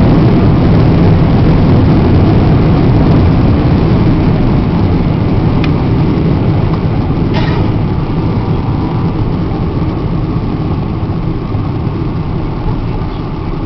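Cabin noise of a Boeing 777-300 airliner: a loud, steady rumble of engines and airflow that slowly dies away. A brief sharp sound comes about halfway through.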